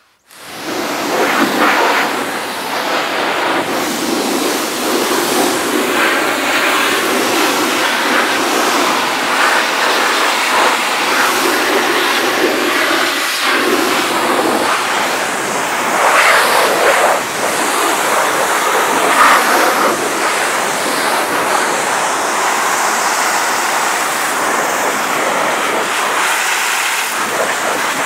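High-pressure washer spraying water on a dirt bike, blasting off the caked mud: a loud, steady hiss of spray that starts about half a second in and swells a little as the jet moves.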